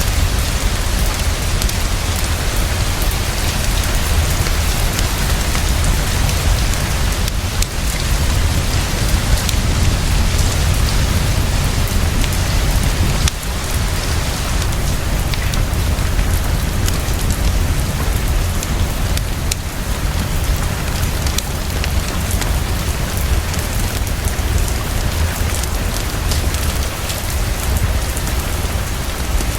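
Heavy, steady rainfall: a dense hiss with a deep low rumble underneath and fine crackling ticks over the top, as from a fireplace burning under the rain.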